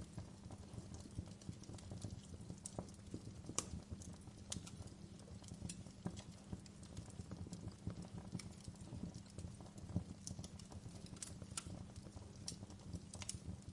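Wood fire burning in a fireplace: a steady low rumble of the flames with irregular crackles and sharp pops of burning wood, a few louder pops standing out.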